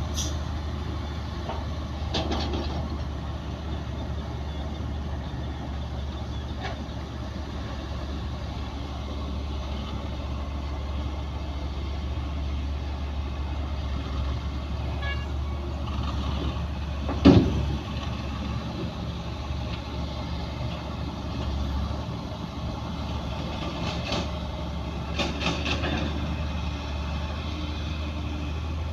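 Heavy diesel earthmoving machinery running with a steady deep engine sound, broken by a few short metallic clanks and one loud bang about two-thirds of the way through.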